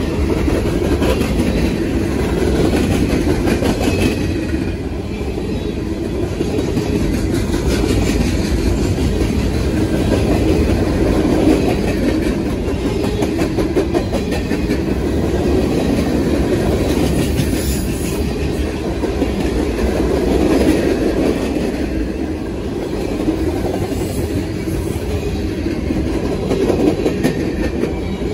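A train rolling past, its wheels clacking steadily over the rail joints.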